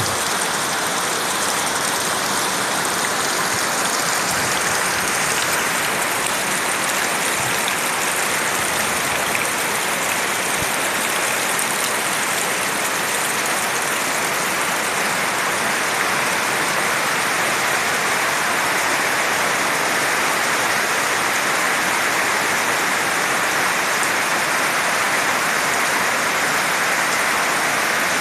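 Heavy rain falling hard and steadily, a dense, even hiss that holds without a break.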